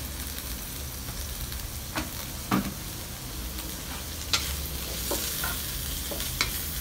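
Minced pork sizzling in a hot wok with browned onions and garlic, stirred with a wooden spatula that knocks sharply against the wok a few times.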